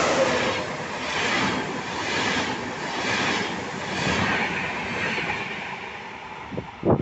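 Vivalto double-deck regional train passing at speed: a rushing rumble of wheels and air that swells and dips about once a second, then fades as the train draws away. Two dull thumps come right at the end.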